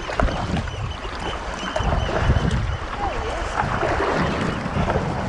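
Wind buffeting the microphone over the sounds of water and paddle splashes around a kayak at sea.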